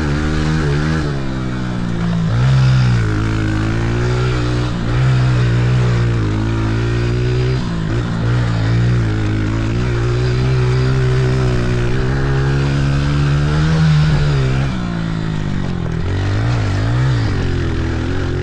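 Honda dirt bike engine being ridden, revving up and dropping back over and over as the throttle opens and closes.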